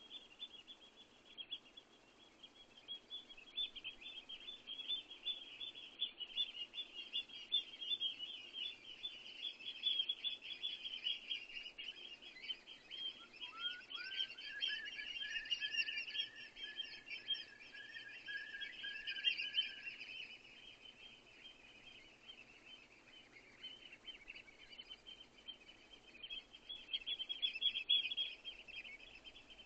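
Small songbirds twittering and chirping continuously in quick high notes. About halfway through, a second bird adds a run of lower, repeated rising notes for several seconds.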